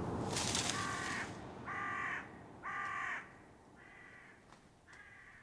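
A bird gives a series of five caw-like calls, about one a second, each fainter than the last. A brief rustle of noise comes at the start, before the first call.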